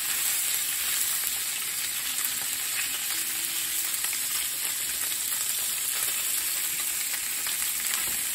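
Pelmeni sizzling as they fry in butter and vegetable oil in a pan: a steady hiss with small pops, while a wooden spatula stirs and pushes apart dumplings that have stuck together.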